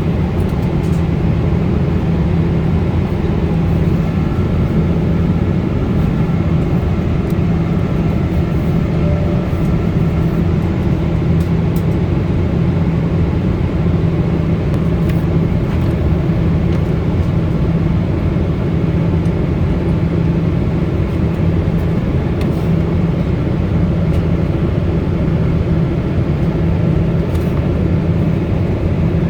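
Steady cabin noise inside a Boeing 777-200ER: engine drone and airflow, with a low hum and no change in level.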